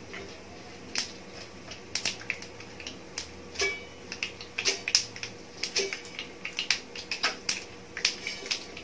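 Mustard seeds and lentils spluttering in hot oil for a tempering: scattered sharp pops that come more often from about a second in.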